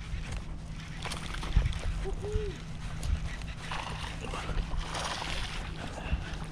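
Water splashing and handling noise as a hooked bass is fought beside a kayak, over a low rumble of wind or handling on the microphone. A brief, short whine-like sound comes about two seconds in.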